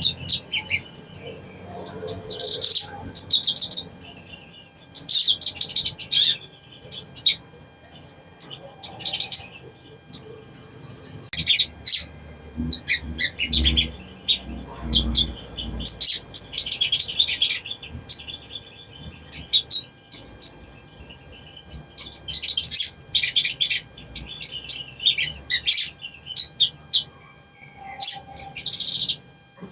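Sogon (sogok ontong) bird singing in repeated short bursts of rapid, high chirps and trills, a lure song used to set other sogon singing. There is a brief low rumble around the middle.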